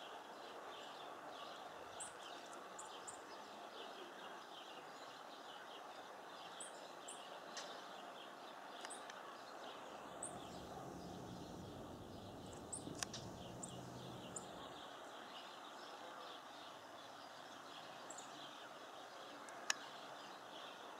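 Small songbirds chirping and calling in quick short notes over a steady background hiss. A faint low hum comes in for a few seconds midway, and a single sharp click sounds near the end.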